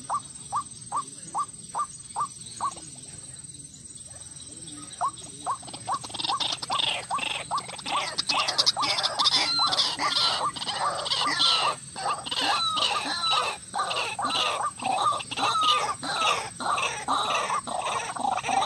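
White-breasted waterhen calling. It starts with a steady run of short single notes, about three a second, then after a short pause breaks into a louder, rapid run of overlapping calls that goes on to the end. This is a lure recording used to attract waterhens.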